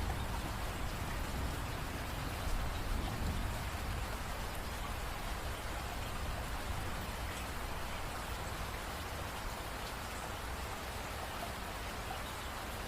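Steady rain falling, an even hiss of drops on surfaces with a low rumble underneath and a few separate drips.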